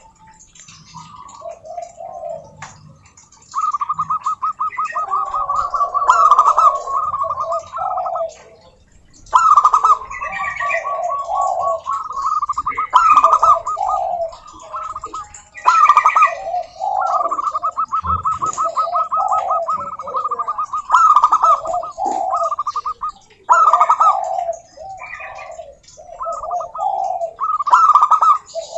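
Zebra dove (perkutut) song: repeated phrases of rapid, staccato trilling coos alternating with lower, rounder coo notes, with short pauses between phrases.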